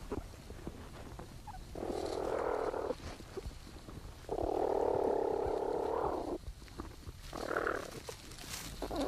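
Platypuses in the nesting burrow making harsh, buzzy calls while the young suckle: four bursts, the longest about two seconds, picked up by a microphone inside the burrow.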